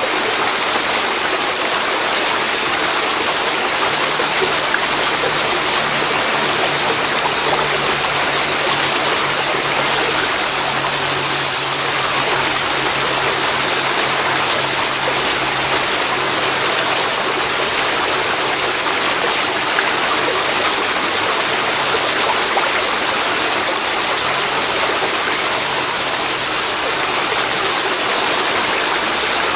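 Steady rushing of a waterfall falling into a river, an even, unbroken wash of water noise.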